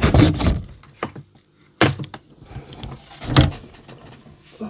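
A few separate knocks and clunks of hard craft tools being handled and set down on a tabletop. The loudest come at about two seconds and three and a half seconds in.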